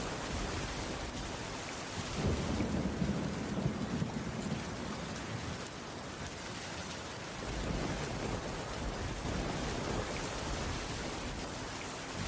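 Steady rain on a wooden cabin roof, with a low rumble of thunder swelling about two seconds in and fading out by about five seconds.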